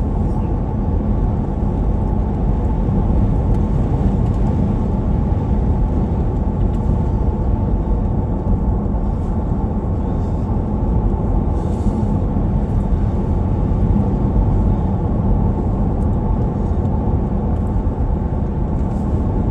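Steady road and engine noise of a vehicle driving, heard from inside its cabin: an even low rumble with no changes in pace.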